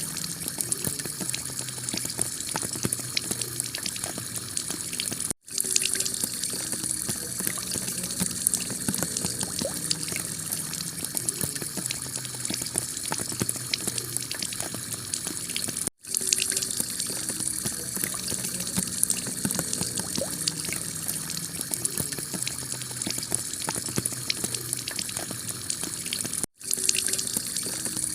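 Heavy rain pattering densely on a clay-tile roof, a steady hiss full of small drop ticks. It cuts out sharply for an instant three times, about every ten seconds.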